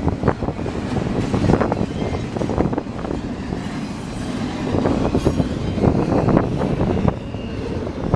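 Freight train cars rolling past, wheels clacking over rail joints with a steady rumble and repeated knocks.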